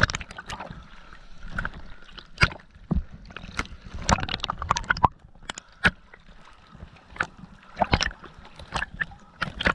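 Water sloshing and splashing around a diver's camera, with many irregular sharp knocks and slaps against it.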